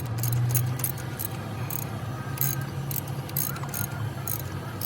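Steady low mechanical drone with frequent light metallic clinks and jingles scattered irregularly over it, typical of metal parts and tools being handled during track-chain work.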